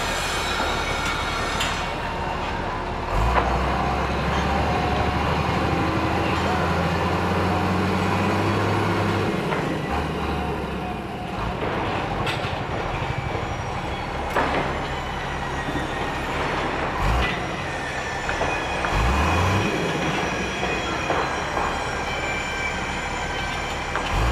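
Construction-site machinery: a heavy engine running steadily, with metallic squeals and several sharp clanks.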